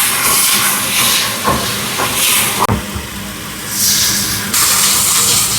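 Loud hissing from food cooking on a street-food stall's stove, easing off about halfway and then surging again, with a few light knocks.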